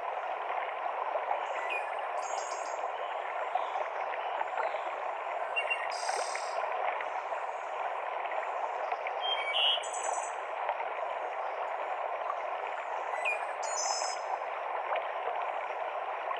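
Steady rush of a forest mountain stream cascading over rocks, with short, high bird calls breaking in now and then, a little more often in the second half.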